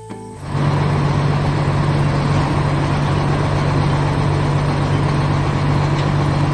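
A heavy engine starts running about half a second in, with a steady low drone under a rough mechanical noise, and runs without change. It takes over from the music.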